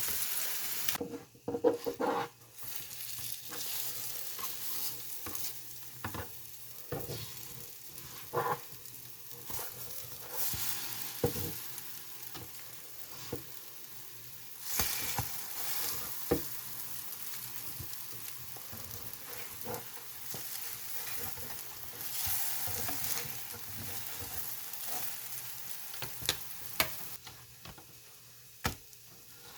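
Battered bread frying in butter on a hot griddle, a steady sizzle that swells several times, with scattered short clicks and knocks of utensils.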